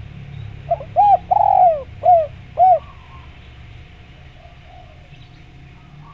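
Spotted dove cooing: one phrase of five short rounded notes, the third longer and falling in pitch.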